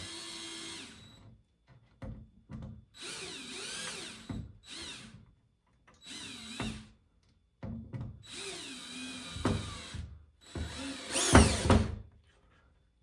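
Power drill driving a screw in a series of short bursts, its motor whine rising and falling in pitch with each trigger pull. The last bursts, near the end, are the loudest.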